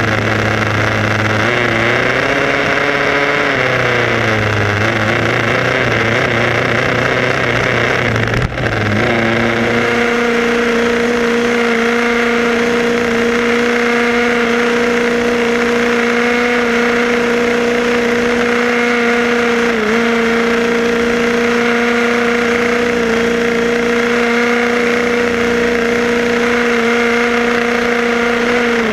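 Motor of a radio-controlled car running. Its pitch wavers up and down for the first nine seconds, with a brief knock near the end of that stretch, then holds a steady drone.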